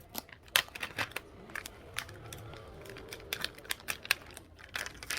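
Irregular light clicks and taps, a few a second, with some crinkling.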